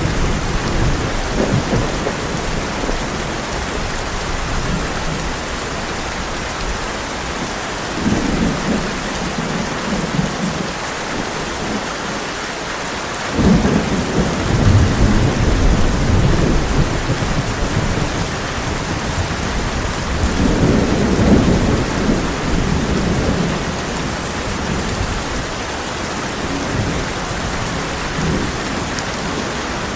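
Heavy rain drumming steadily on a tin roof, with thunder rumbling several times, the strongest roll coming on suddenly about halfway through and another swelling a few seconds later.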